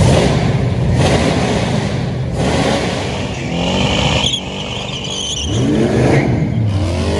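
Car engine revving hard, its pitch sweeping up and down repeatedly. A high, steady squeal runs for about a second and a half near the middle.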